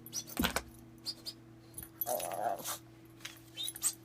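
Shih tzu making short, squeaky whines and small noises as it fusses at a whistling toy, with light jingling and taps.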